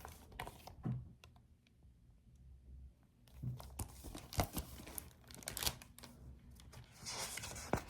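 Faint handling of a paper picture book: scattered small clicks and taps, then a short rustle of a page being turned near the end.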